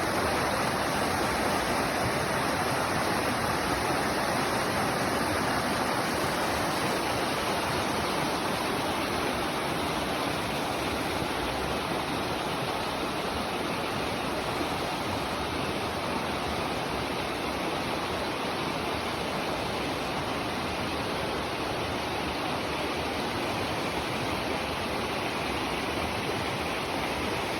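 Steady rushing of flowing water, an even, unbroken noise with no let-up.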